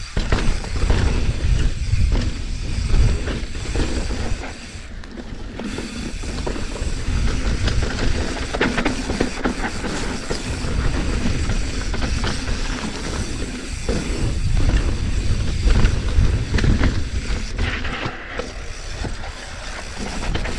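Mountain bike riding down a rough dirt trail: tyres on dirt and the bike rattling and clattering over bumps, with many sharp knocks, under a steady low rumble of wind on the microphone.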